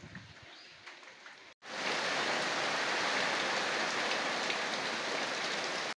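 Heavy rain falling, a steady loud hiss that starts abruptly about one and a half seconds in, after quiet background.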